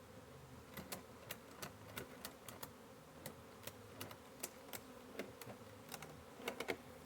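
Honey bee swarm humming steadily, with irregular sharp clicks, two or three a second, starting about a second in.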